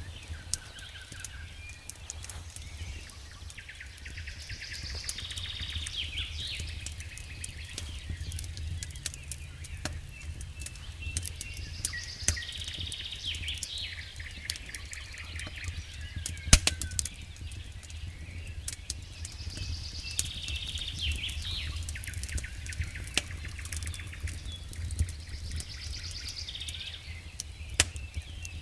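Campfire crackling with many sharp pops, one much louder about sixteen seconds in, over a low steady rumble. A bird sings short phrases in the background every several seconds.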